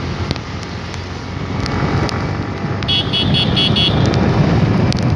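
Motorcycle running along the road, with steady engine, road and wind noise on the phone's microphone. About three seconds in comes a quick run of about five high beeps.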